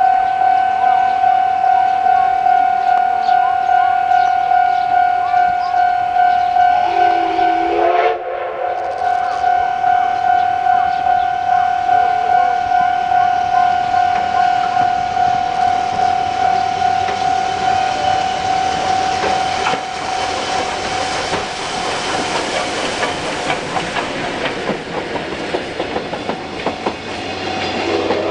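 Railway level-crossing warning bell ringing steadily with a repeating ding about twice a second. From about halfway, the C58 steam locomotive's train passes, its wheels clattering over the rail joints, loudest toward the end before it eases off.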